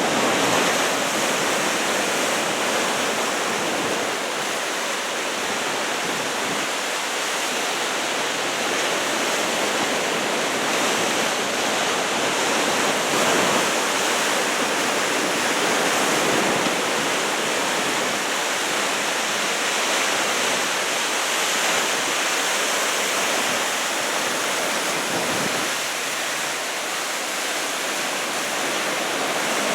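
Heavy ocean surf from a typhoon swell of about two metres, breaking along the shore in a steady rush of noise.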